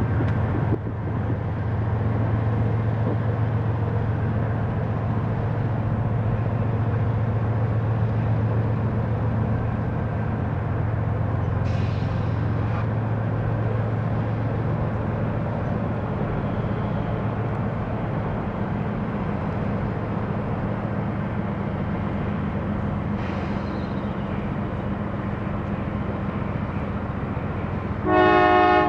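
Diesel locomotive engine running with a steady low drone, with two brief hisses along the way. Near the end a multi-chime train horn starts to sound.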